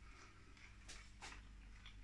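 Near silence with faint soft clicks of a person chewing a mouthful of food.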